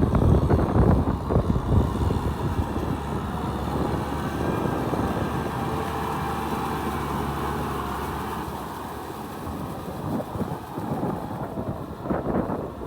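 Kubota farm tractor's diesel engine running steadily while pulling a plough through mud. It is loudest in the first couple of seconds and swells unevenly near the end.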